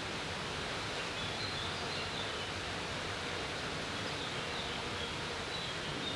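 Steady outdoor ambient noise, an even hiss without a clear source, with faint short high-pitched chirps scattered throughout.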